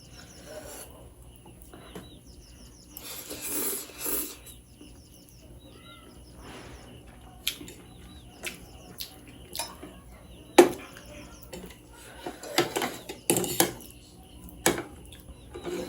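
Eating sounds: a utensil clicks against a dish several times, the sharpest about ten and a half seconds in, between two stretches of noisy eating at the mouth.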